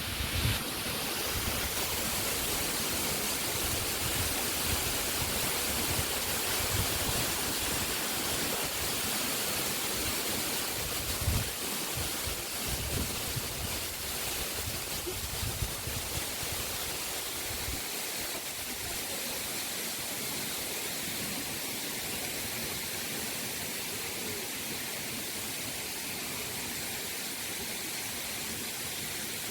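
Steady rushing of a waterfall, an even hiss of falling water. Irregular low rumbles come and go over roughly the first half, then fade.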